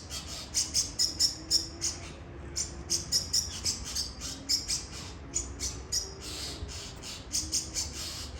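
Bird chirping: short, high-pitched chirps repeated rapidly in runs of several a second, with brief pauses between runs.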